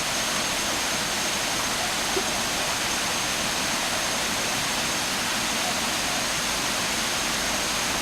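Steady rush of falling water, with a thin, faint high tone held steadily above it.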